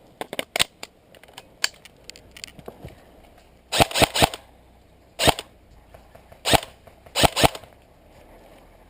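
Airsoft M4 rifle firing single semi-automatic shots, a sharp crack with each trigger pull: a quick group of three about four seconds in, then single shots and a closing pair, with fainter clicks earlier.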